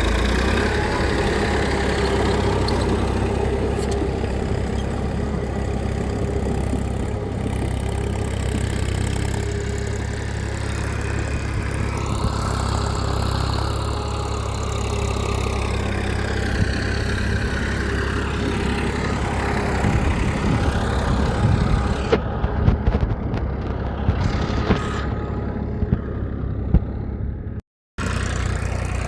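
Small engine of a mini tractor running steadily at idle, with a brief cut to silence near the end.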